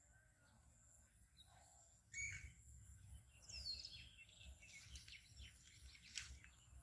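Faint bird calls in the open: a few short, high chirps that fall in pitch, with some soft clicks near the end over a low background hiss.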